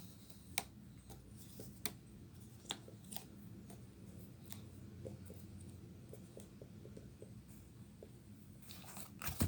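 Faint handling sounds from a Shark vacuum's floor head as the brush bar is checked for tangled hair: scattered light clicks and knocks of plastic parts, with a louder clack near the end.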